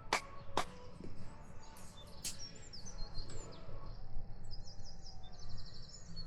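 Small birds chirping and trilling in short high calls, with two sharp clicks in the first second.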